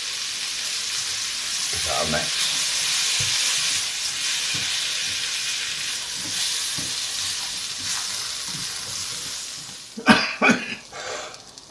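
Red lentils, butternut squash cubes and onions sizzling in a wok on medium heat while being stirred with a silicone spatula: a steady frying hiss. Near the end the sizzle eases and a few short louder sounds break in.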